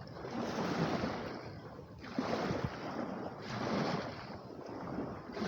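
Lake waves washing against the shore in repeated surges, with gusty wind buffeting the microphone.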